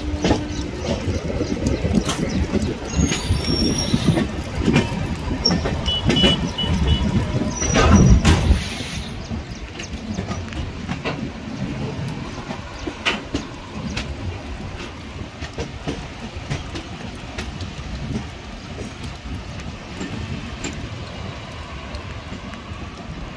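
Express passenger train running, heard from on board, its wheels knocking and clicking over the rail joints. Brief high squeals come a few seconds in, and there is a louder stretch about eight seconds in before it settles to a steadier rumble.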